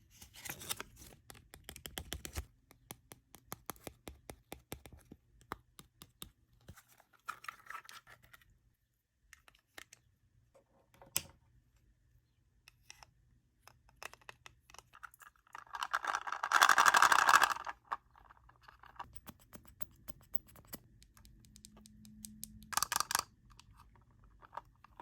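Small plastic toy pieces and packaging being handled: many light clicks and taps, with a louder rustling burst lasting about two seconds midway and a shorter one near the end.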